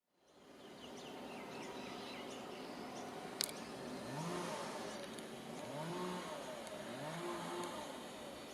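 Outdoor ambience with a vehicle engine revving up and dropping back three times, with faint bird chirps early on and one sharp click.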